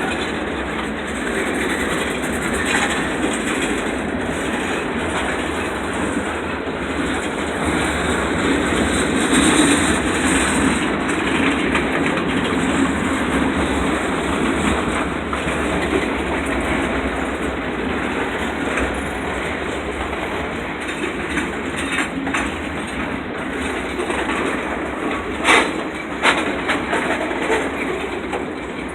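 Freight train cars rolling steadily past, wheels clicking over the rail joints, with a few sharp clanks near the end.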